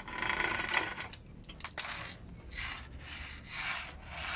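Repeated rasping, rubbing strokes, roughly two a second, after a loud scrape and a few sharp clicks.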